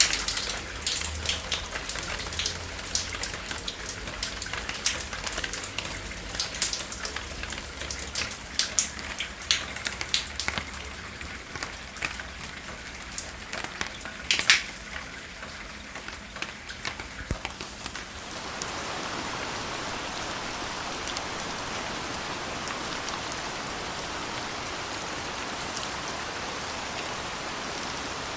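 Rain falling, with many individual drops ticking sharply against a surface. About two-thirds of the way through it changes abruptly to a steady, even rain hiss.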